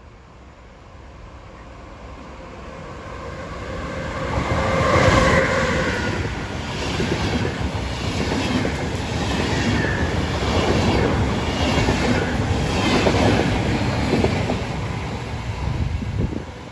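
EuroCity passenger train, a DSB class EB electric locomotive hauling DB Intercity coaches, passing close by: it grows louder as it approaches, loudest about five seconds in, then a steady rhythmic clickety-clack of coach wheels over the rail joints. The sound cuts off suddenly near the end.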